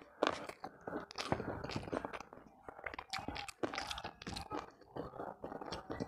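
Close-miked chewing of a mouthful of chicken neck and rice, with many small irregular crunches and wet mouth clicks.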